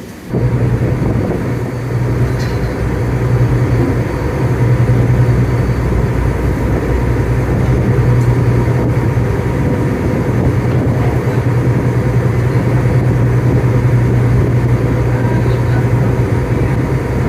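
An older ferry's engine running steadily under way, a loud low drone heard from on board.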